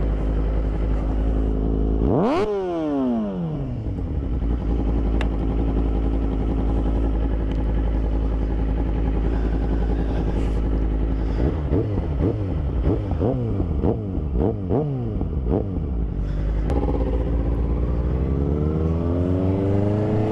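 Motorcycle engine under way, over a heavy low rush of wind on the microphone. About two seconds in it revs quickly up and falls back. Between about twelve and sixteen seconds its pitch climbs and drops several times in quick succession, and near the end it climbs steadily as the bike accelerates.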